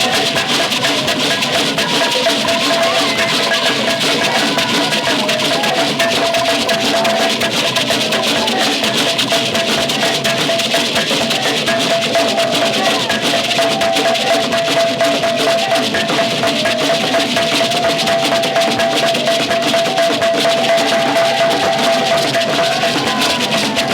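Percussion music with drums, rattles and sharp wood-block-like knocks in a fast, dense rhythm, with a long held note sounding through it.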